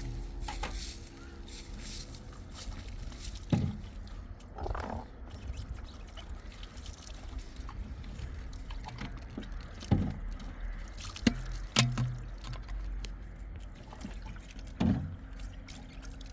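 Water sounds with about five sharp knocks spread through, one of them close to the start.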